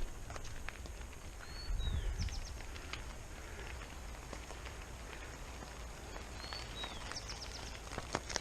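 A bird gives a short whistled call twice, each note rising and then dropping, over a low rumble with scattered clicks and a faint steady high tone.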